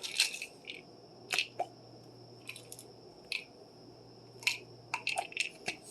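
Scattered light clicks and small rattles, a dozen or so short ones with gaps between, from pill bottles and pills being handled. A faint steady electrical hum runs underneath.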